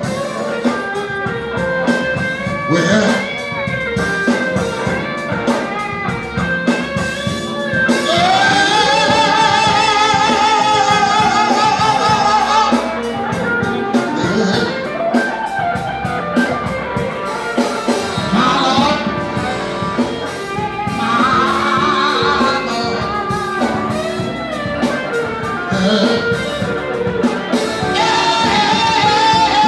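Blues song with a singer holding long, wavering notes over guitar accompaniment.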